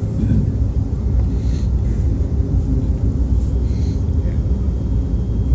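Steady low rumble of an Amtrak passenger train rolling on the rails, heard from inside the coach, with a couple of faint short clicks.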